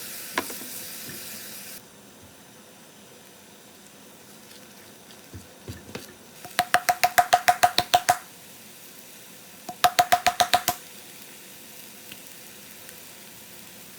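A steady hiss that cuts off abruptly, then two runs of rapid, evenly spaced clicks, each carrying a short ringing tone; the clicking is the loudest sound.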